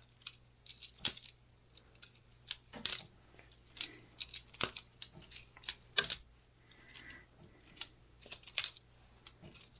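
Boker Plus balisong butterfly knife being flipped by hand: its handles and latch clack and clink against each other in quick, irregular metallic clicks, with several sharper clacks as the handles close.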